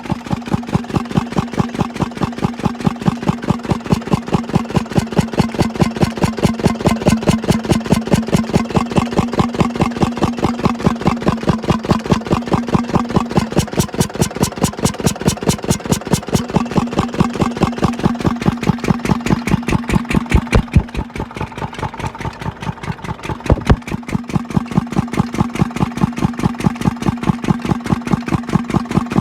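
Stationary engine driving a water pump, running at a steady speed with an even beat of several firing pulses a second. About two-thirds of the way through it eases briefly, then gives a couple of sharp knocks and picks back up.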